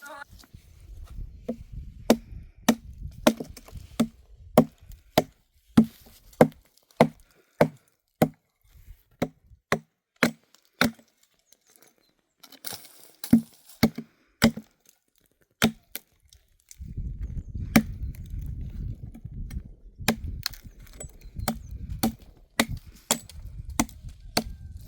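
Chopping: a long run of sharp, hard strikes, about two a second, pausing briefly about two-thirds of the way through, with a low rumble under the later strikes.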